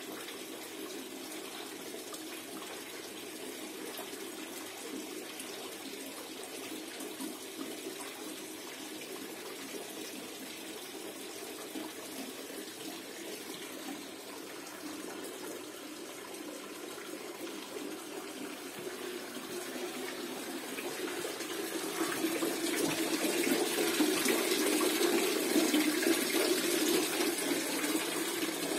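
Water running steadily from a çeşme, a Turkish water fountain spout, splashing into its basin. It grows louder about three-quarters of the way through.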